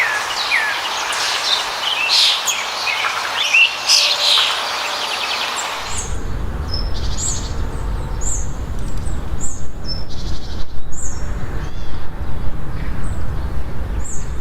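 Wild birds calling in a dense chorus of chirps and whistles. About six seconds in the sound changes abruptly to a low rumble with only scattered high, short chirps.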